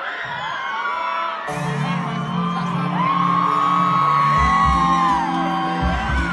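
Live concert music with a crowd singing along and whooping over it; the band's bass and beat come back in about a second and a half in.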